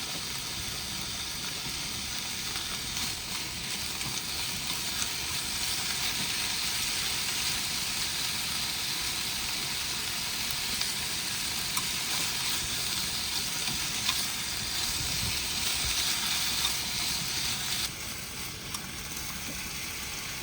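Udon noodles sizzling in a frying pan as they are stirred, with a few faint ticks of the utensil against the pan. The sizzle drops off sharply near the end.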